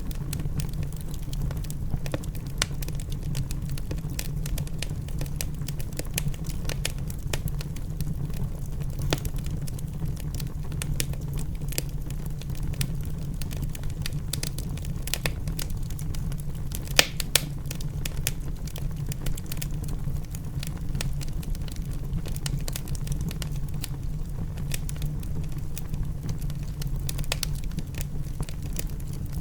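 Wood fire crackling in a fireplace: irregular sharp pops and snaps over a steady low rumble, with a couple of louder pops about halfway through.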